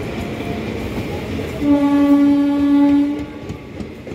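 Indian Railways passenger coaches rushing past at speed with a steady rolling rumble. About one and a half seconds in, a train horn sounds one steady tone for nearly two seconds, the loudest sound here.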